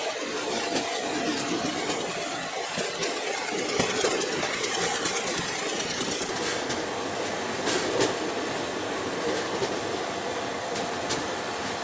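Indian Railways express passenger coach running at speed, heard from its open door: a steady rush of wheel and wind noise with irregular sharp clacks of the wheels passing over rail joints.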